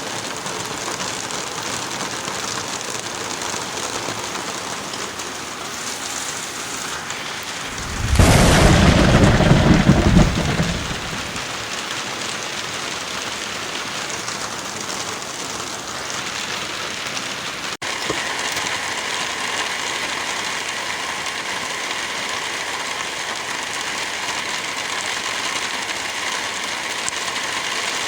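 Heavy rain falling steadily, with a loud rumble of thunder about eight seconds in that lasts some two and a half seconds.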